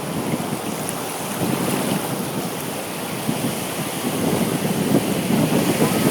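Ocean surf washing on a beach, a steady rushing that swells a little in the second half, with wind buffeting the microphone.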